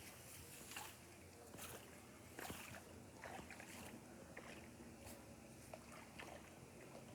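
Near silence: faint background with a few soft, scattered clicks and rustles.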